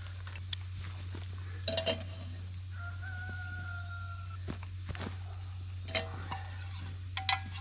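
Steady insect chorus with scattered clicks. About three seconds in, a single long, slightly falling call: a distant rooster crowing once.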